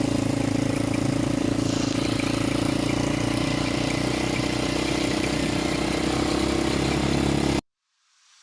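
Motorcycle engine running at a steady, unchanging speed with a constant hiss over it; the sound cuts off suddenly about seven and a half seconds in.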